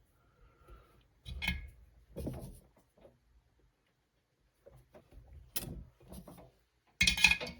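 Intermittent small knocks and clicks of parts and tools being handled on a workbench, with a louder clatter about seven seconds in.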